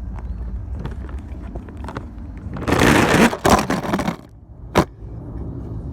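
Toy dump truck sliding down a slide: a steady rumble of the truck on the slide, a loud scraping rush about three seconds in, then a single sharp knock near the end.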